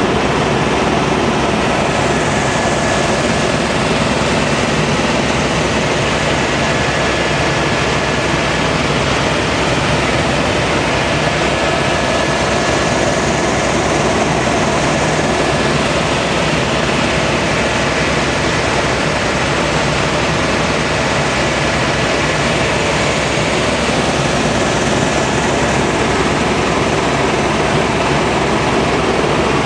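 Tour helicopter in flight, its engine and rotor making a loud, steady drone heard from inside the cabin.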